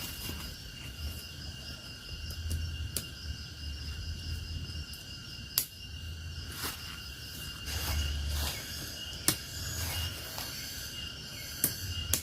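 Insects trilling steadily in a high, even chorus, with scattered sharp clicks or taps every second or two and bouts of low rumble.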